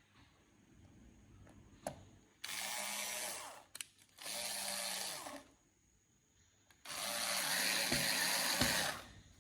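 A small handheld power tool run in three bursts of one to two seconds, the last the longest: a harsh hiss over a steady motor hum.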